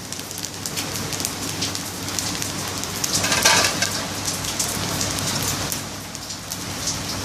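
Salted-egg fried rice sizzling in a hot steel wok: a dense, steady crackle that swells about three seconds in and eases off again near the end.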